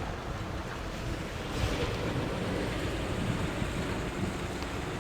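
A breeze buffeting the microphone: a steady, deep rush of wind noise with no distinct events.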